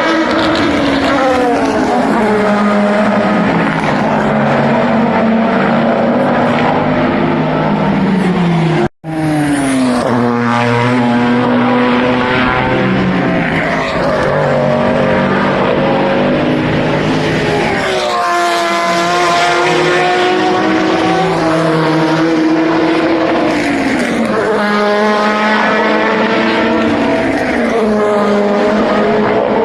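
Le Mans endurance race cars running past at speed, engines stepping down through the gears under braking and then revving back up on acceleration, several times over. The sound cuts out briefly about nine seconds in.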